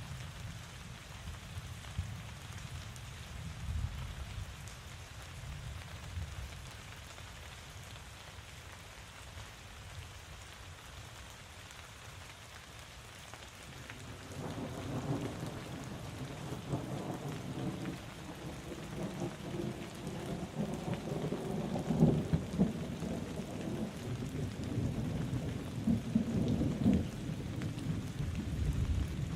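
Steady rain falling with a low, rolling rumble of thunder underneath. About halfway through the thunder grows louder and fuller, swelling twice near the end.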